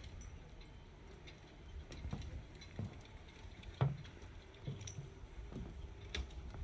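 Wind rumbling on the microphone, with scattered light knocks and clicks; the sharpest knock comes about four seconds in.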